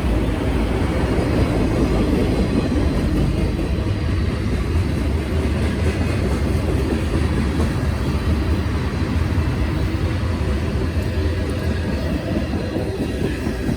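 CSX I132 intermodal freight train rolling past close by: a loud, steady rumble of wheels and cars on the rails.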